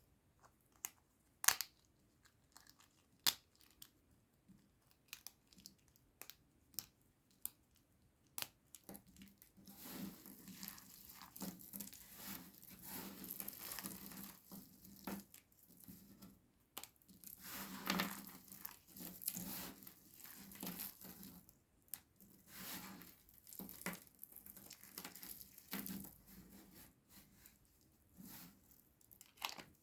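Dried-out soap being broken and crushed: a few separate sharp snaps and clicks at first, then from about nine seconds in a continuous dry crumbling and crackling that comes in uneven surges.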